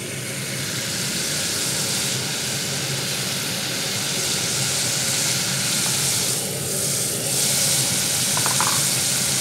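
Sliced mushrooms and carrots sizzling as they fry in oil in a pot, a steady hiss.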